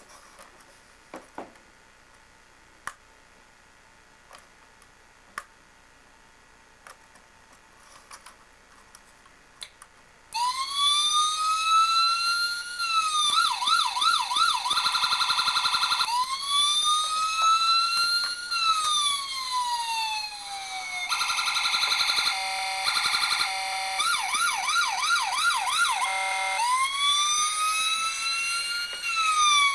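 Electronic siren module in a 1/18 scale model police Hummer, switching on about a third of the way in after a few faint clicks. It cycles through a slow rising-and-falling wail, a fast warbling yelp, the wail again, a choppy stretch of steady tones, another yelp, and the wail once more.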